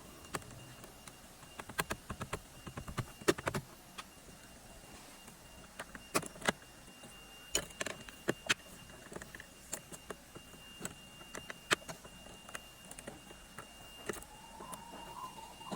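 Irregular sharp clicks and knocks, as of hard parts being handled, with a faint steady high tone underneath.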